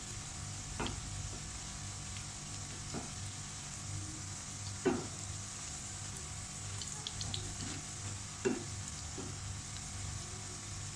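Besan-battered noodle pakoras sizzling steadily as they deep-fry in hot oil in a pan, with a few sharp taps of a spatula against the pan, the two loudest about five and eight and a half seconds in.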